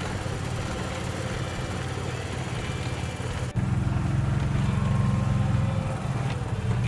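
Golf cart's engine running steadily while driving along a trail, with a sudden jump to a louder stretch about halfway through.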